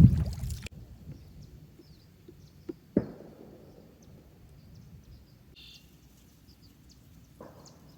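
A rushing noise stops abruptly within the first second. After that it is quiet, with faint bird chirps and a few hollow knocks: a small one, then a sharper one about three seconds in, and a weaker one near the end.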